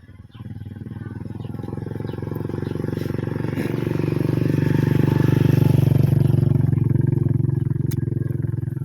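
A motor vehicle engine running with a steady low drone that grows louder to a peak about five or six seconds in, then eases off slightly.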